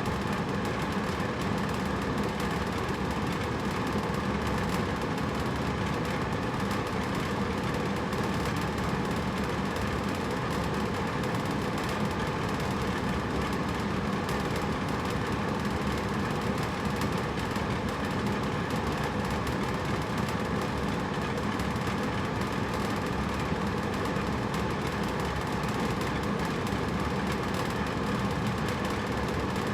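Hotel room air conditioner running, a steady even whoosh of the fan with a constant low hum.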